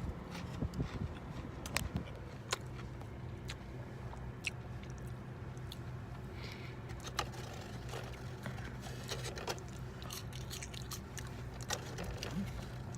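Chewing and crunching on a breaded fried chicken tender, with scattered small clicks over a steady low hum.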